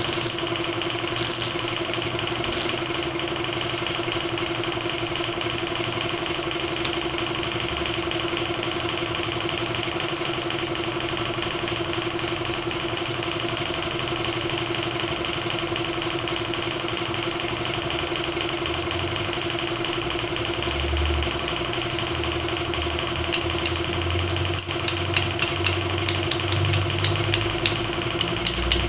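A machine or motor running with a constant, unchanging hum. Near the end comes a quick run of sharp ticks or taps.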